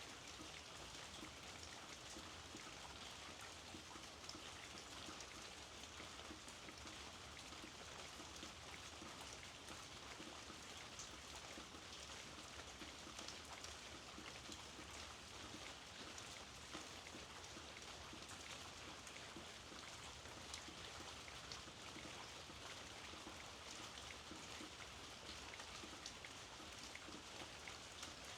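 Steady, soft rain falling, an even hiss dotted with many small drop ticks.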